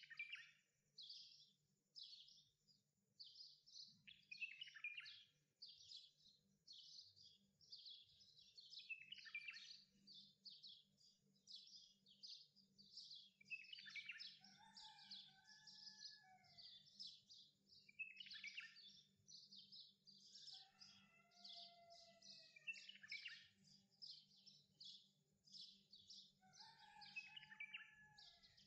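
Faint birdsong: small birds chirping in quick runs of high notes, with a few lower whistled calls that rise and fall.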